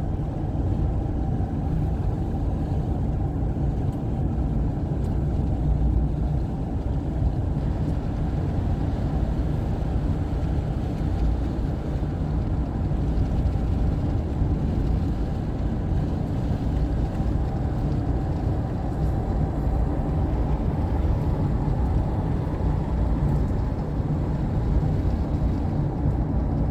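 A car driving, with a steady low rumble of tyres and engine.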